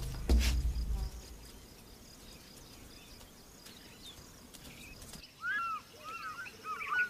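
A heavy thump and low rumble in the first second, then quiet outdoor ambience. From about five seconds in, a wild bird calls: a run of repeated short arching chirps.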